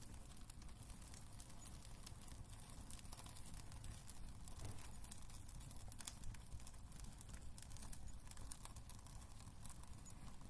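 Wood fire burning in a fireplace: scattered small crackles and pops over a steady low rumble, faint.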